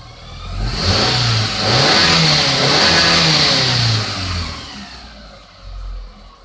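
Mitsubishi Grandis's 2.4-litre MIVEC 4G69 inline-four engine revved up and down about four times in quick succession, then dropping back toward idle.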